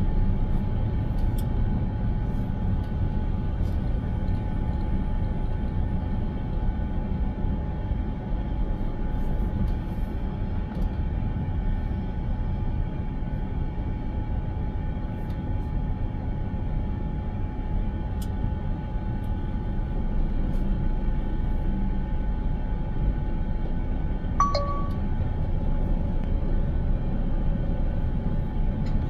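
Steady low rumble of a car's road and engine noise, heard from inside the cabin, with a faint steady hum and a few light clicks. A short beep sounds about three-quarters of the way through.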